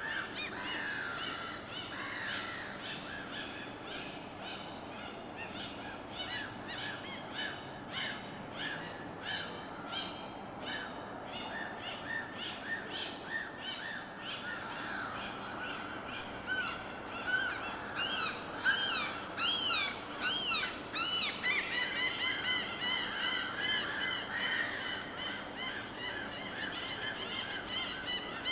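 Many birds calling over and over, their calls overlapping, with a louder run of rising-and-falling calls about two-thirds of the way in, over a steady background wash.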